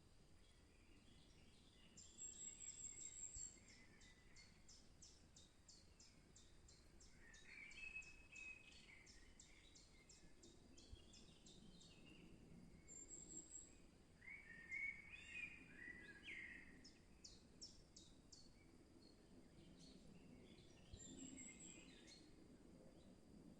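Faint forest birdsong from several birds: brief high thin trills three times, a quick run of high ticking chirps in the first third, and two louder warbling phrases.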